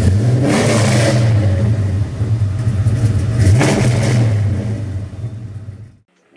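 The 1966 Chevrolet El Camino's 462-cubic-inch big-block V8 running, with two quick revs, about half a second in and again about three and a half seconds in, then fading out near the end.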